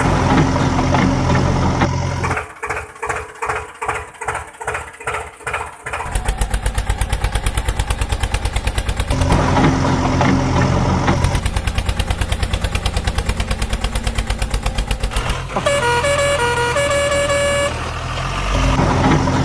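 Truck horn sounding in long blasts, alternating with an engine chugging in fast, even pulses. Near the end a short tune of horn notes steps up and down.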